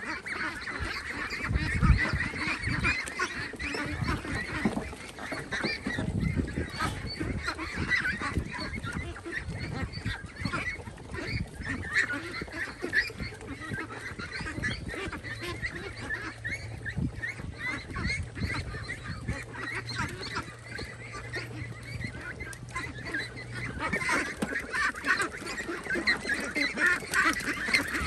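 A flock of birds calling constantly, many short calls overlapping, with a low steady hum for a while in the middle.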